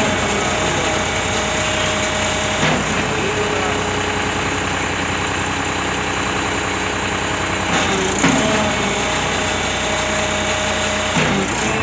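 John Deere 5310 tractor's diesel engine running steadily, with a few short louder knocks about 3, 8 and 11 seconds in.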